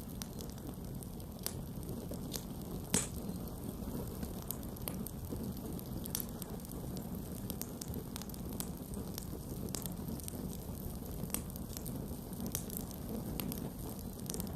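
Wood campfire burning: a steady low rumble of flame with irregular crackles and snaps, and one louder pop about three seconds in.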